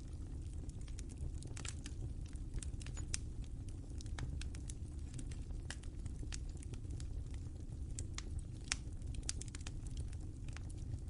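Wood fire crackling in a fireplace: a steady low rumble of burning with irregular sharp pops and snaps, a few louder ones standing out.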